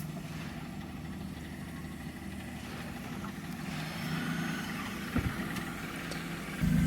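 2016 Lexus RX 350's V6 engine idling steadily, with a single short knock about five seconds in. Near the end a much louder, steady low hum comes in.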